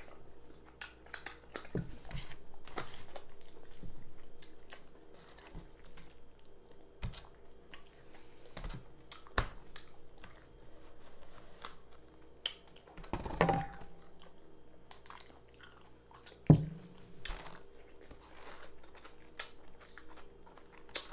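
A person chewing a mouthful of fufu dipped in egusi stew, with irregular soft wet mouth clicks. One sharper, louder click comes about sixteen seconds in.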